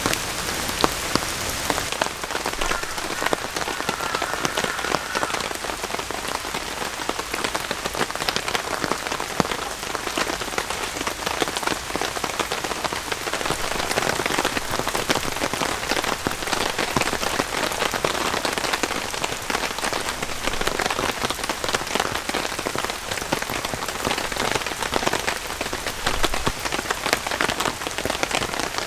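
Steady rain falling, heard as an even hiss dense with the sharp ticks of individual drops hitting a surface.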